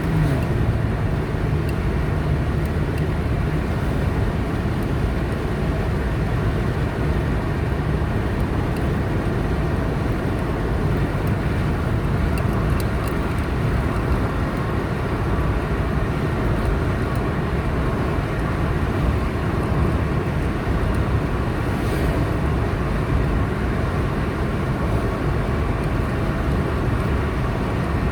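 A car driving steadily on a highway: constant rumble of tyres on the road and engine hum, with no change in pace.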